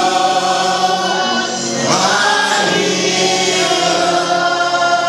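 A choir singing a gospel song with musical accompaniment, voices held on long, sustained notes.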